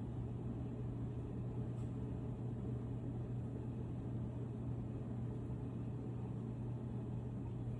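Steady low hum with a constant low tone and rumble, unchanging throughout.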